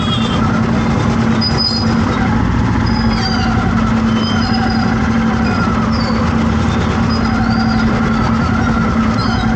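Road traffic: an engine running steadily with a constant low hum, with short high-pitched chirps scattered through.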